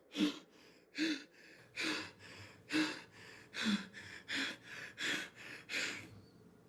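A person gasping for breath in a panic: about eight short, sharp, rapid gasps in a row, stopping about six seconds in.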